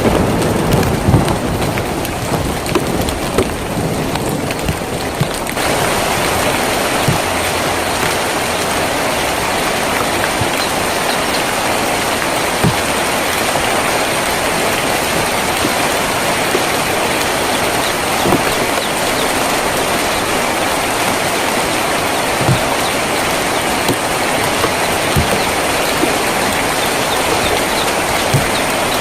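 Rain on a tin roof: a steady hiss dotted with scattered sharp drip ticks. The tail of a thunder rumble fades in the first second or so. About five and a half seconds in, the rain abruptly becomes denser and louder, then holds steady.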